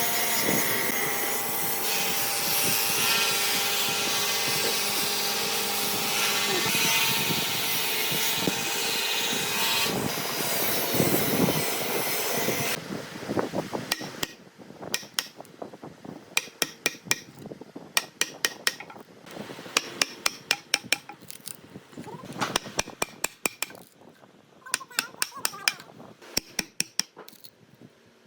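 Chainsaw running steadily, cutting into a log, then stopping a little under halfway through. After it come quick groups of sharp knocks, several a second, with pauses between the groups.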